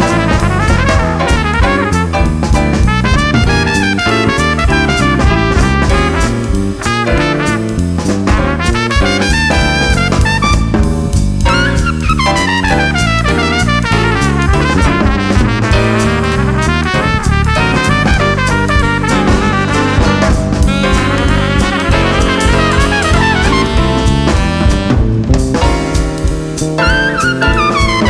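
Jazz band playing a lively tune: a brass lead plays quick runs over a bass line that moves in steps and a drum kit keeping time.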